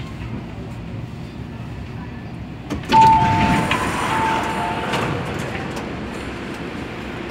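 Electric multiple-unit train's doors opening at a station: a click about two and a half seconds in, then a sudden rush of sliding doors with a steady two-note chime for about two seconds, settling back to the train's steady hum.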